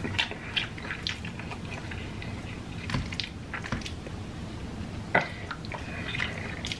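Close-miked chewing of a mouthful of food, with wet mouth sounds and many small clicks, one a little sharper about five seconds in.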